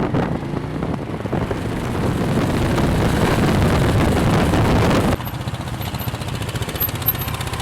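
Motorcycle engine running, growing louder over the first few seconds, then breaking off abruptly about five seconds in to a steadier, quieter engine run.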